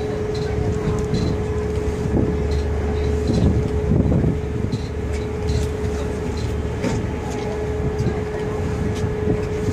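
Sightseeing boat's engine running under way, a steady low rumble with a constant hum tone over it.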